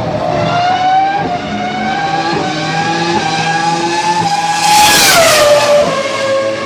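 Jaguar R5 Formula One car's 3.0 L V10 engine running at high revs, its high-pitched howl climbing slowly in pitch. It is loudest about five seconds in, then its pitch drops and holds lower, as when the car passes close by.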